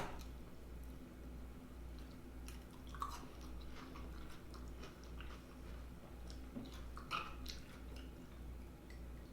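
A person chewing a mouthful of food close to the microphone, with scattered soft clicks and wet mouth sounds.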